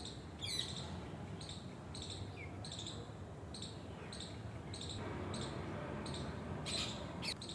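Birds calling outdoors: a short high note repeated steadily about every half second, with a quick falling call about half a second in and again near the end.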